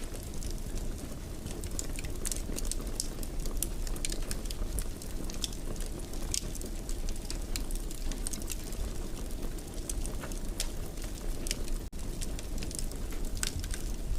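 Fire in a fireplace crackling, with frequent short sharp pops and snaps over a steady low rumble of the flames.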